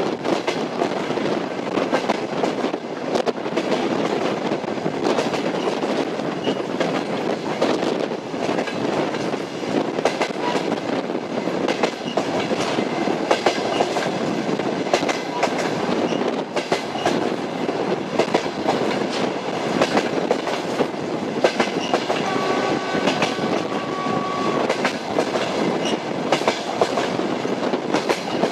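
Passenger train running on the rails, its wheels clicking steadily over rail joints under a continuous rumble. About 22 seconds in, a faint two-note steady tone sounds for a couple of seconds.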